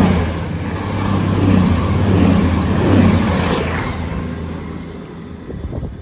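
Voyager diesel multiple unit passing through the station without stopping: a loud steady engine hum with rushing wheel and air noise that fades away over the last two seconds as the train recedes.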